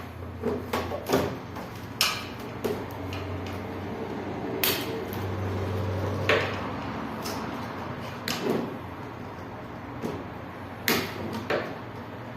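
Scattered metal knocks and clunks, about a dozen, as the fan motor is worked loose and taken out of a window air conditioner, over a low steady hum.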